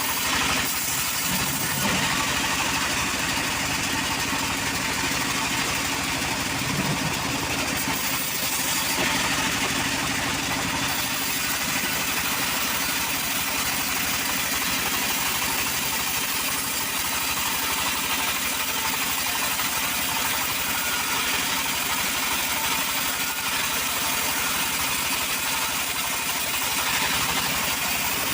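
A petrol-engined wood saw running steadily and without a break.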